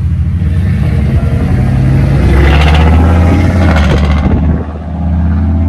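Single-turbo 5.0 V8 of a Ford F-150 race truck under hard acceleration, getting louder for a couple of seconds with a rising rush on top, then easing off briefly about four and a half seconds in.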